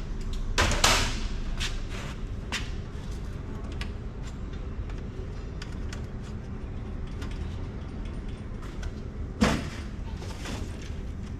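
A few knocks and sliding clatters of hardware being handled, the loudest about a second in and another about nine and a half seconds in, as circuit boards are worked out of a metal equipment rack. Steady low background noise underneath.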